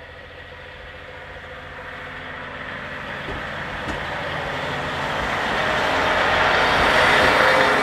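Diesel railcar passing close by, its engine and running noise growing steadily louder as it comes alongside, loudest near the end. One short click about four seconds in.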